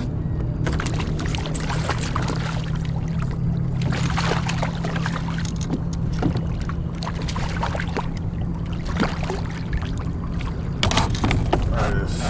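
Water splashing and short knocks and rattles against a kayak as a hooked coho salmon is brought alongside and landed, over a steady low hum.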